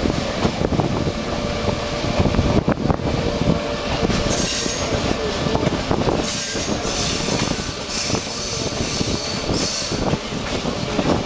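Passenger train rolling along the track, a steady rumble with clicks of the wheels over the rails, heard through an open car window. From about four seconds in, a high-pitched wheel squeal comes and goes in several stretches, then fades near the end.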